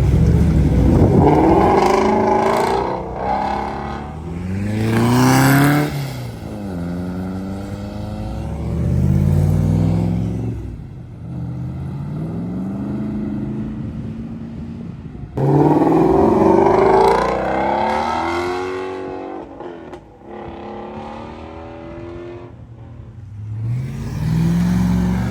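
Car engine revved hard several times, its pitch climbing and dropping. It comes in suddenly loud at the start and again about halfway through.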